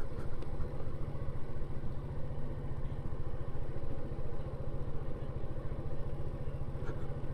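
Yamaha Vino 125 scooter's small single-cylinder four-stroke engine running steadily at low speed, a low, evenly pulsing rumble.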